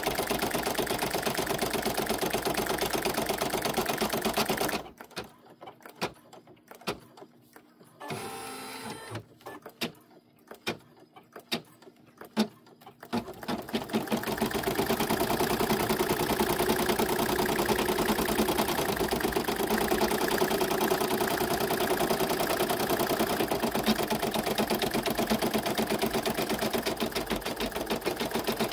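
Embroidery machine stitching steadily, then stopping for about eight seconds with scattered clicks and a short whir, and starting up again to stitch steadily once more.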